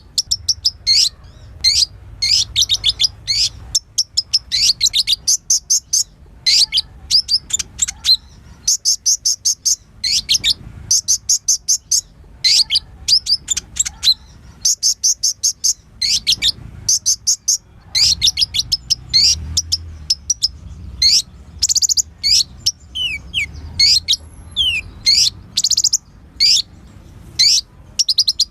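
A sunbird of the kind bird-keepers call 'kolibri ninja' singing a loud, varied song of rapid high chirps and trills in quick bursts, with a few falling whistled notes in the last third.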